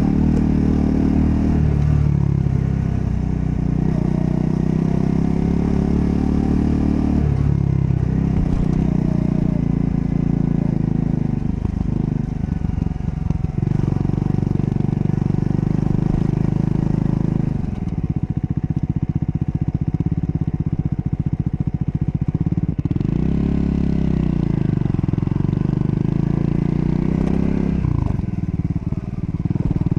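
Triumph Scrambler 400 X's 398 cc single-cylinder engine running under way, its revs dropping and climbing again several times as the rider shifts and rolls the throttle on and off.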